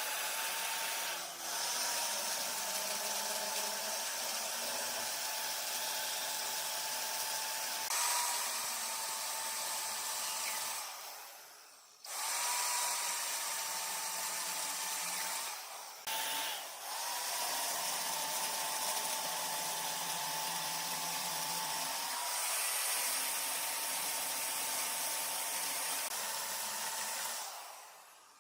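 Large wood lathe running, with a steady motor whine and the hiss of a turning tool cutting the spinning wood. It fades out and starts again abruptly about twelve seconds in, with brief breaks near the start and about sixteen seconds in.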